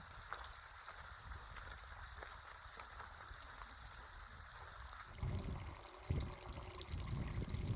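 Faint, steady running water, like a small stream or trickle. From about five seconds in, a few low thumps and rumbles sound over it.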